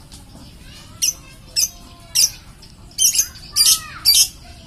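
Bird chirping: a string of short, high, sharp calls, coming closer together in the second half.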